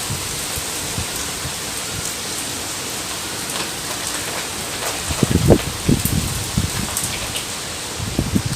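Steady rain falling, an even hiss. Irregular low rumbling bursts come in about five seconds in and again near the end.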